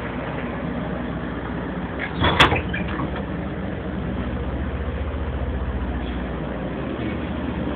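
Rain falling with an engine idling steadily underneath. A single loud bang comes about two and a half seconds in.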